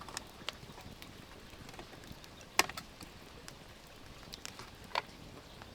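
Wood fire crackling: scattered small pops, with two sharp snaps about two and a half and five seconds in.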